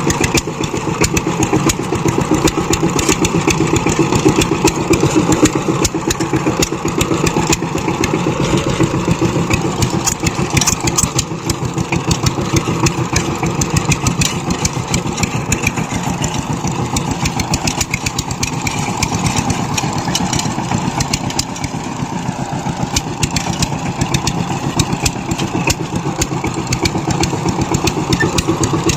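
Power tiller engine running steadily, firing in fast, even pulses.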